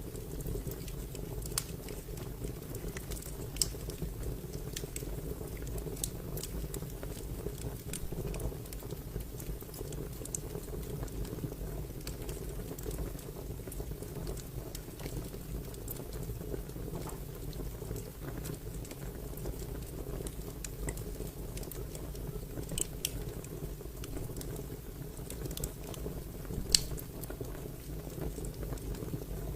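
Wood fire crackling: a steady low rumble of flames with scattered sharp pops and snaps, one louder pop near the end.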